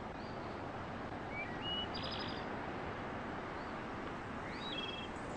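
A few short, high bird chirps over an even background hiss: one about a second and a half in, a short trill around two seconds, and another near the end.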